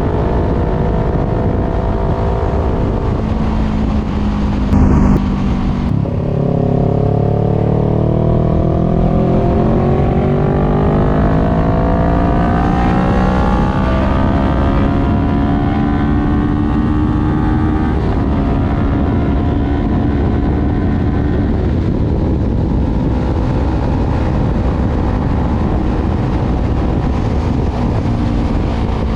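Voge 500R's parallel-twin engine through a full exhaust with the dB killer removed, heard from on board under way. The revs drop and there is a brief louder burst about five seconds in, then the engine pulls with a steadily rising note for about twelve seconds before settling to a steady cruise, over a constant rush of wind.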